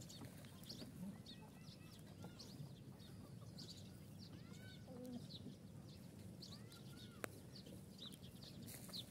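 Faint chirping of birds: many short, arching calls repeated through the whole stretch, with a brief low call about five seconds in and a single sharp click a little after seven seconds.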